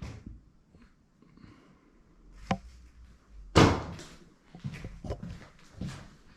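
A sharp click about two and a half seconds in, then a loud thump about a second later, followed by several lighter knocks, in a small room.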